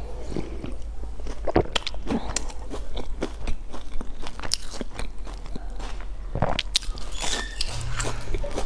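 Close-miked eating: crunchy bites into a fried pastry and chewing with wet mouth clicks, irregular and ongoing.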